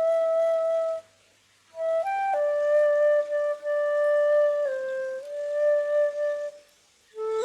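Flute playing a slow melody in long held notes, stepping between pitches, with two brief pauses for breath: one about a second in and one near the end.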